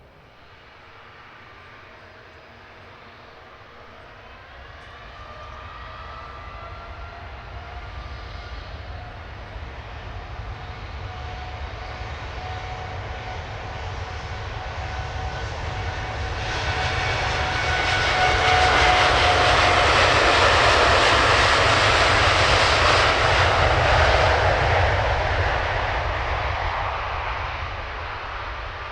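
Jet airliner passing close by, its engines roaring with a whining tone that slowly builds, peaks about two-thirds of the way in, then begins to fade.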